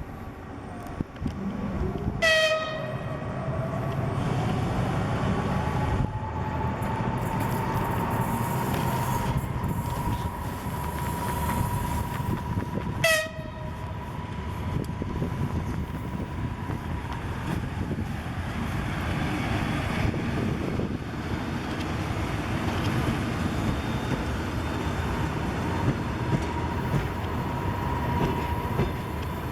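An EP2K electric locomotive gives two short toots on its horn, about ten seconds apart, as it rolls into the station with its passenger train. Wheels rumble and clack on the rails throughout, and a whine rises and then holds steady.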